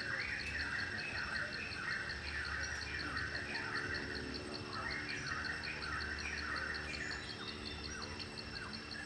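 Birds calling in repeated short chirping phrases, with a pause about halfway through, over an insect's steady fast-pulsing high chirp.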